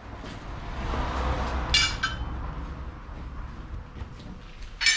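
Pieces of steel clinking as they are handled and set down: two ringing metallic clinks, about two seconds in and again near the end, over a low steady hum.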